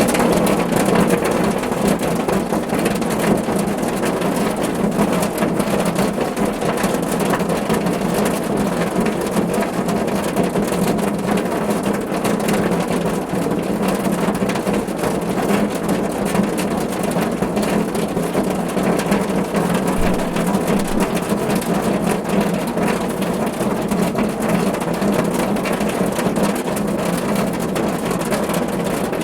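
Steady rain falling on a car's roof, a dense, even patter of drops.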